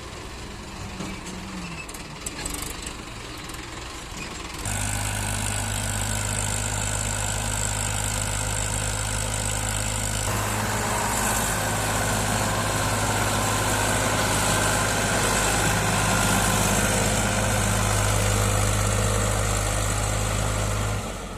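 HMT tractor's diesel engine running steadily. It becomes much louder about five seconds in, gets rougher and noisier around ten seconds in, and falls away just before the end.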